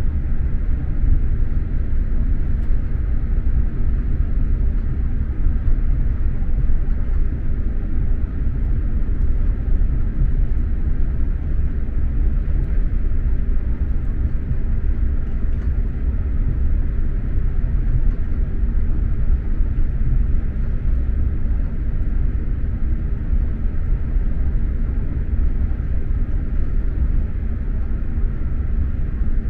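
Steady low rumble of an SJ X2000 high-speed train running along the line, heard from inside a passenger carriage.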